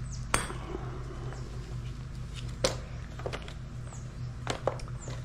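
A few sharp clicks and knocks of hard sled parts and hardware being handled and set down during assembly, the loudest about a third of a second in, with a quick pair near the end, over a steady low hum.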